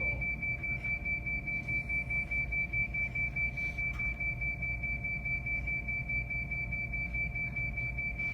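Train protection radio (bōgo musen) emergency alarm on a JR West train: one high beep repeating rapidly and steadily, the signal that tells nearby trains to stop at once after an emergency stop. A low hum runs beneath it.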